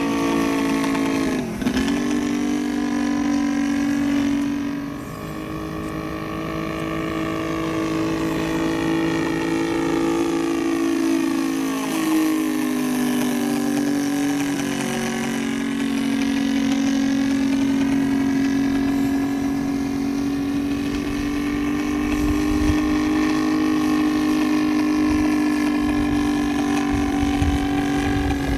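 Saito three-cylinder gasoline model engine of a radio-controlled Zero fighter in flight, running at a steady drone. Its pitch drops sharply a little over a second in and again more gradually about halfway through, as the plane passes by.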